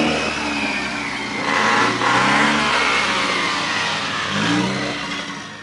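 Turbocharged flat-four engine of a modified Subaru WRX revving as the car pulls away, its pitch rising three times with a rush of exhaust noise about two seconds in. It fades near the end.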